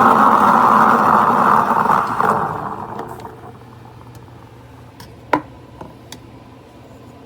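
SUMSATY espresso machine's steam wand hissing as it froths and heats milk for a cappuccino, dying away a little over two seconds in. After that a faint low hum remains, with a few light clicks and one sharp click.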